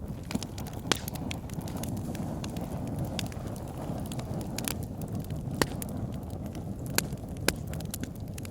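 Log fire burning with a steady low rumble and scattered small crackles. A few sharp, louder pops stand out: about a second in, and three in the second half.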